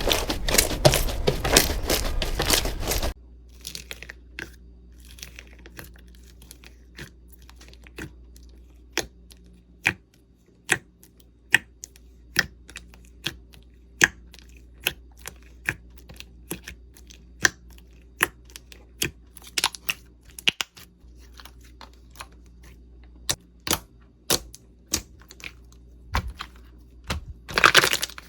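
Slime being worked by hand: a dense crinkly crunching for the first few seconds, then a quieter run of sharp sticky clicks and pops, about two a second, and a short crinkly burst near the end.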